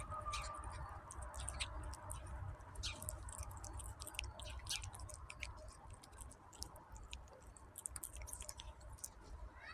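Kitten chewing and smacking on its food: quick, irregular little clicks that go on throughout, over a low steady hum.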